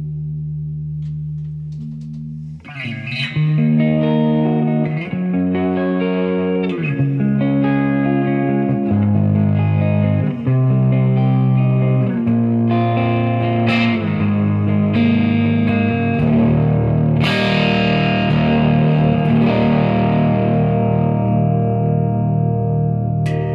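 Gibson Les Paul electric guitar played through a Third Eye overdrive pedal into a Marshall amp, with a warm overdriven tone. A held note rings at first; about three seconds in, a run of single-note melodic lines follows, and the tone turns brighter about two-thirds of the way through.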